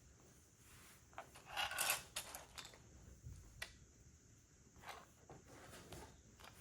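Small plastic Lego bricks being handled: a short rattle of pieces about a second and a half in, then a few scattered clicks.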